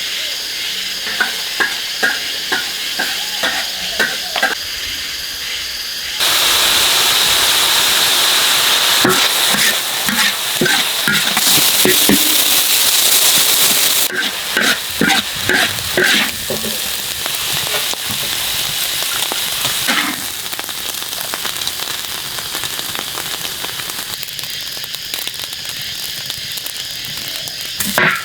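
Food frying in hot oil, stirred and tapped with a metal spatula. A run of light spatula taps comes first, then the sizzle jumps suddenly louder about six seconds in, with more scraping strokes, and eases off later.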